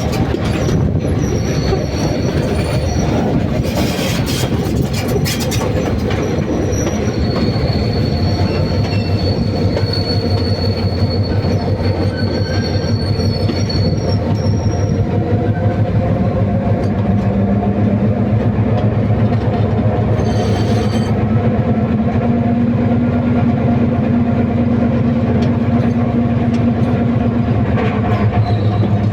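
Train running over a railway bridge: a steady, loud rumble of wheels on rail with fast clatter. A thin, high wheel squeal is heard about a third of the way in, and a low, steady drone joins a little past halfway.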